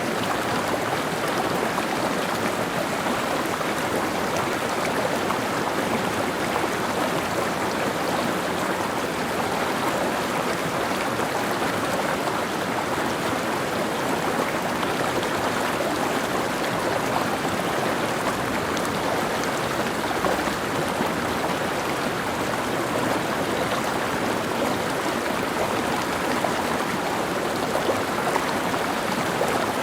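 Mountain stream flowing over rocks, a steady rushing babble of water.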